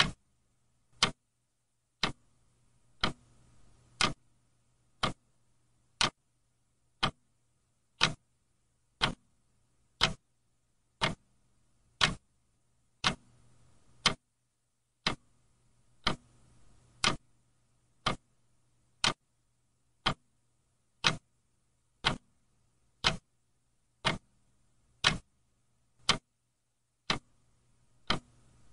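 Clock ticking steadily, one sharp tick each second, over a faint low hum.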